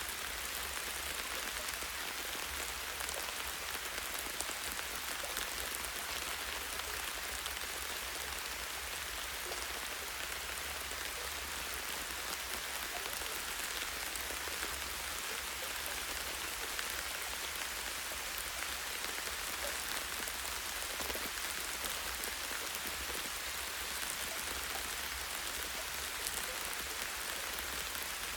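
Light rain falling on a tree branch: a steady hiss of rain with many small, separate drop ticks, over a faint low steady rumble.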